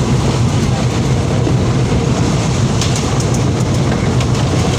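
Moving train heard from aboard: a steady, loud rumble of the wheels on the track, with a few faint light clicks.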